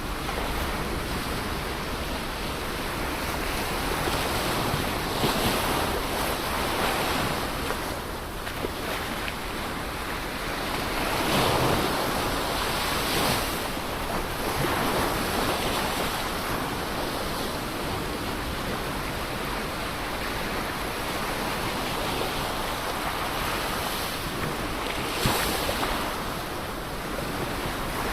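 Ocean surf: a continuous rush of waves breaking and washing in, swelling louder as each wave comes in, once around the middle and again briefly near the end.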